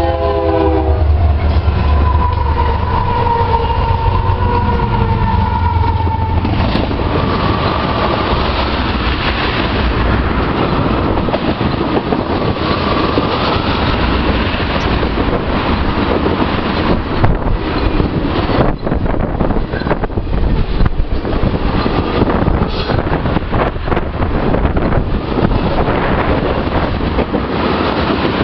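Eastbound freight train passing close by: a locomotive horn ends right at the start, then the diesel locomotives rumble past with a steady tone for about six seconds. From then on there is a steady clatter of the ethanol tank cars' wheels over the rail joints.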